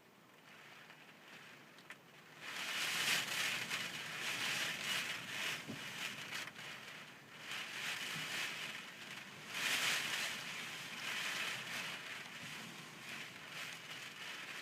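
Typhoon wind and rain, quiet at first, then picking up sharply about two and a half seconds in and surging in gusts, strongest near four and ten seconds in.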